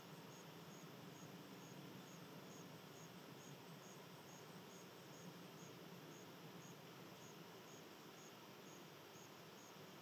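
Faint insect chirping, short high chirps repeating evenly about three a second, typical of a cricket, over a steady low background hum.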